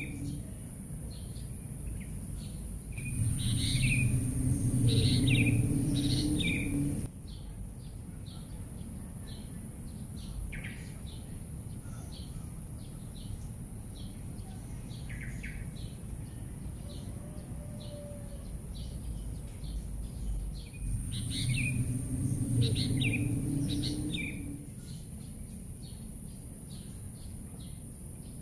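Birds chirping, with short calls scattered throughout over a steady high hiss. A louder low rumble swells about three seconds in, then cuts off a few seconds later, and returns for a few seconds past the twenty-second mark.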